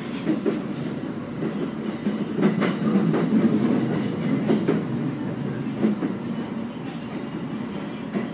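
JR East E217 series electric train running, heard from inside the cab at the coupling between two units: a steady low rumble of the running gear with scattered sharp clicks from the wheels over rail joints, loudest about two and a half to three and a half seconds in.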